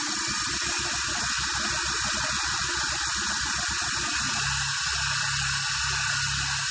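Electric motors and spinning rotor blades of a three-channel coaxial RC helicopter, running steadily with a whirring hiss and a low hum while the small tail rotor turns in reverse. The lower part of the sound changes about four seconds in.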